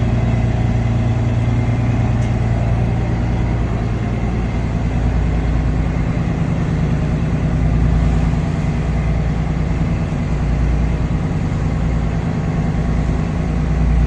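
Steady low engine drone with an even hum, like a vehicle's engine running.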